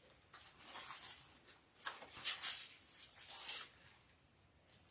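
Faint rustling of paper, as Bible pages are turned to find a passage: a few short rustles, the loudest about halfway through.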